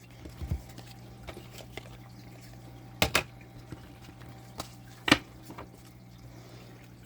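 Thick tarot cards being handled, with a quick double tap about three seconds in and another sharp tap about five seconds in, and a few lighter ticks, over a low steady hum.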